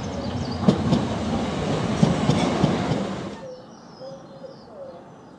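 Electric multiple-unit passenger train moving through the station, its wheels knocking over rail joints several times. The noise drops away suddenly about three and a half seconds in.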